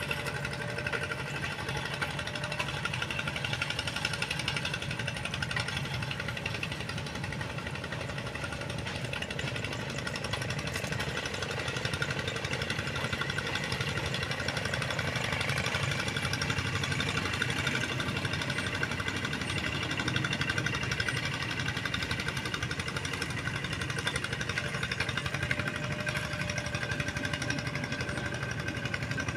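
Tractor engine running steadily at an even speed, a fast unbroken mechanical chugging.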